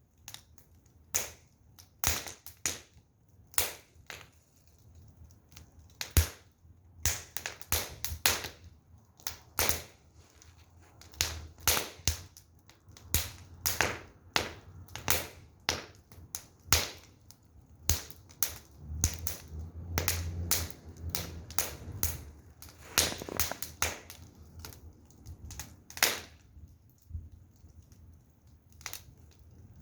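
Firewood burning in an open fire, crackling with irregular sharp pops.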